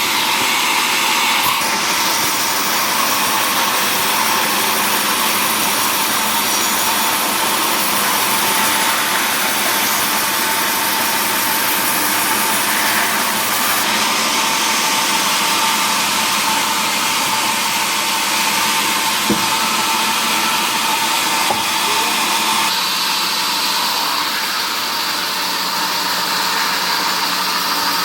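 Sawmill machinery processing mahogany wood, running steadily with a constant high hum; the sound shifts slightly about two-thirds of the way through.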